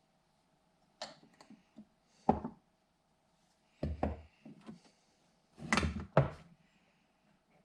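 Irregular hard knocks and thumps, about half a dozen, with the loudest a little after two seconds in and around six seconds in.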